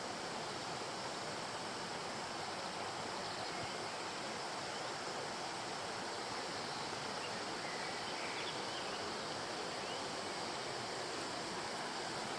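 Steady rush of flowing river water, with a few faint high chirps about halfway through.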